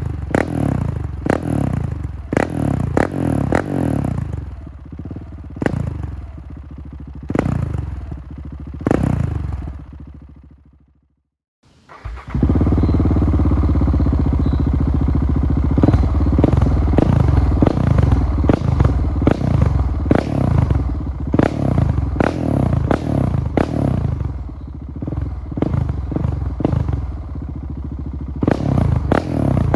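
Husqvarna 701's single-cylinder four-stroke engine being revved through its exhaust in quick throttle blips, each rev falling back, which thin out and fade away. About twelve seconds in it cuts back in loud and sustained with revs rising and falling, and quick blips return near the end.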